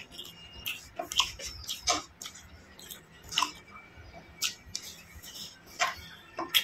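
Close-up chewing and lip-smacking of a mouthful of fried rice: a run of irregular wet clicks and smacks at uneven intervals.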